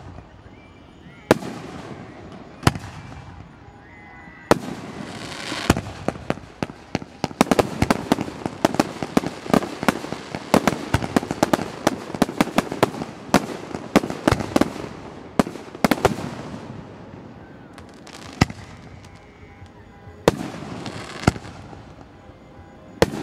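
Aerial fireworks shells bursting with sharp booms, at first a second or two apart. About seven seconds in they build to a dense run of rapid bangs and crackling lasting several seconds, then thin back out to single booms near the end.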